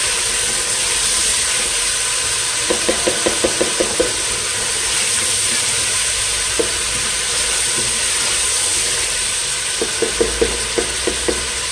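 Potatoes and sliced onions frying in hot oil in a pot: a steady sizzle, with a spoon stirring and clicking against the pot in two quick runs of clicks, about three seconds in and again near the end.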